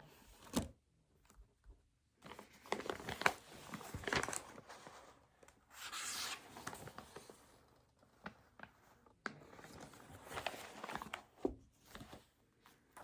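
Paper being handled at a desk: irregular rustling and crinkling of sheets, with a few light knocks and clicks.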